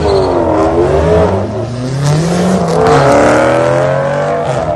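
Turbocharged engine revving hard, its pitch rising and falling; it climbs, drops sharply about halfway through, then holds steady and eases off near the end.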